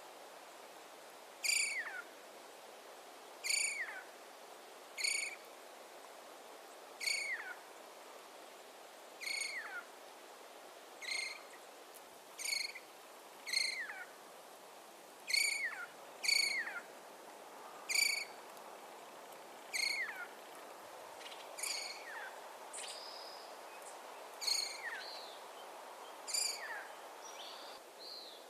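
A wild animal's short call, falling in pitch, repeated about every one and a half to two seconds over a faint steady background hiss.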